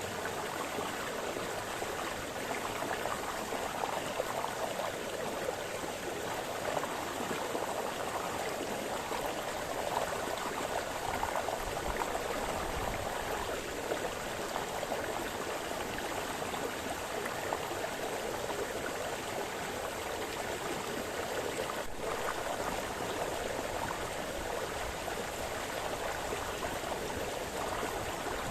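Brook water splashing and burbling over stones, a steady flowing sound with no break.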